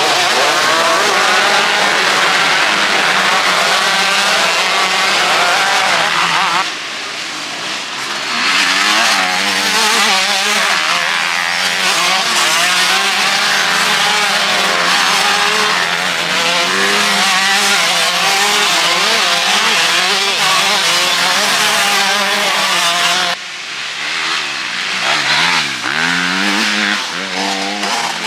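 Several 125 cc and 250 cc motocross bikes racing, their engines revving up and down hard as the riders accelerate, shift and back off. The sound drops briefly about seven seconds in and again in the last few seconds, where one engine's pitch falls and then climbs again.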